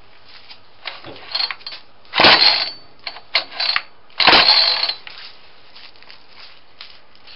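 Recoil starter cord being pulled on a two-stroke string-trimmer engine with a J-B Weld epoxy cylinder. There are several short scratchy pulls and two long loud ones, some with a thin high squeak, and the engine does not fire. The owner takes the squeak for a sign that the epoxy cylinder is ruined and rubbing on the piston.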